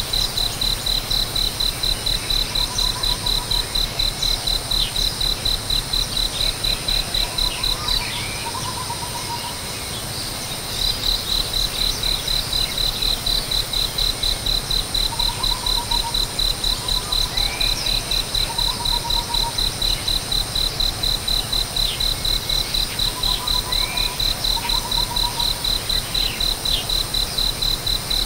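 Insect chirping in a fast, even pulse, about four high chirps a second, that breaks off for about three seconds a third of the way through, with faint bird calls behind it: short trills and slurred whistled notes.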